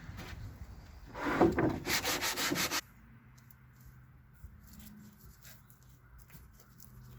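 Sanding in quick back-and-forth strokes that stops abruptly about three seconds in, leaving only a faint low hum and a few light ticks.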